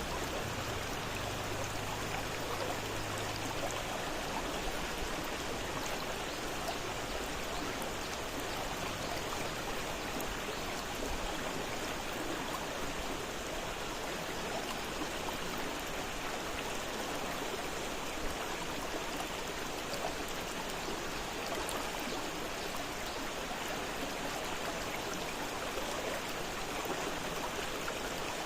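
Fast-flowing river water rushing over rocks, a steady full rush without pauses.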